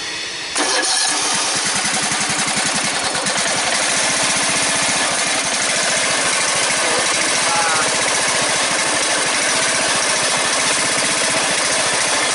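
Small engine running on a cold start; about half a second in it jumps louder and then runs on steadily with an even, rapid firing beat.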